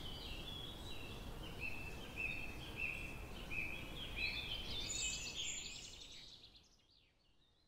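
Birds calling: a run of short whistled notes that step downward in pitch, over steady outdoor background noise. Everything fades out to silence near the end.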